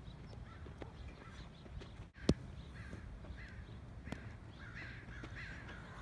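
Repeated caw-like bird calls in the background, thickest in the second half. One sharp crack a little over two seconds in is the loudest sound.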